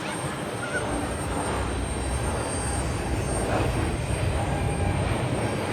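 Boeing 737-800's CFM56-7B jet engines running at idle on the apron: a steady low rumble under a broad jet hiss with a faint high whine.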